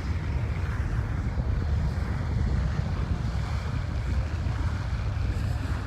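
Wind buffeting the microphone: a steady low rumble with a rushing noise over it.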